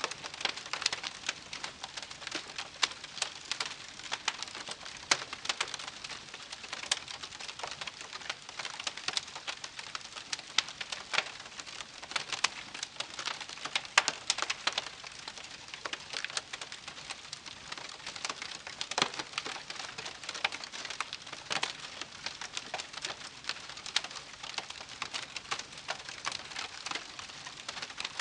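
Wood campfire crackling steadily, with many irregular sharp pops and snaps over a soft hiss.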